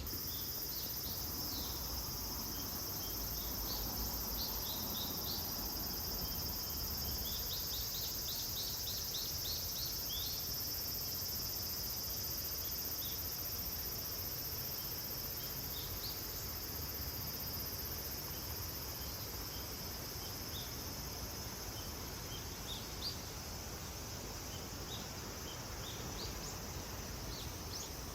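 Insects buzzing in a steady, high-pitched chorus, with short high bird chirps over it and a quick run of chirps about a third of the way in.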